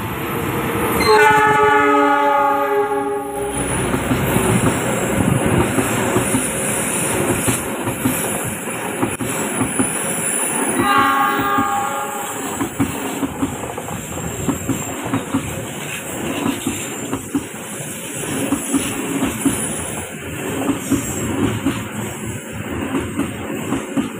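Passing train: the diesel locomotive sounds its horn for about two and a half seconds, then gives a shorter blast about eleven seconds in, over the steady rumble of the train rolling by, with wheels clicking over the rail joints.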